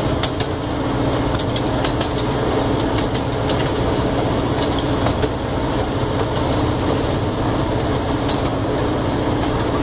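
A small ride-on train running steadily, heard from on board: a continuous low rumble with irregular sharp clicks and rattles from the wheels and cars.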